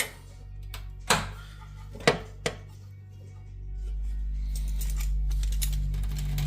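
Three sharp metallic knocks, the first two a second apart and the third quickly after, as a sheet-metal repair panel is tapped down into place. Background music comes in about halfway through.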